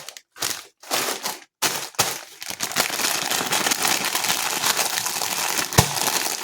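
Plastic crisp packaging crinkling as it is handled, in short stretches with brief gaps over the first second and a half, then steadily, with one sharp knock near the end.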